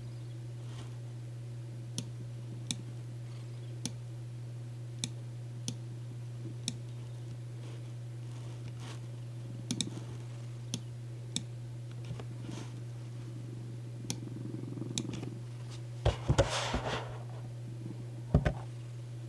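Scattered single clicks of a computer keyboard over a steady low white-noise hum, with a louder rustle about sixteen seconds in and a short knock near the end.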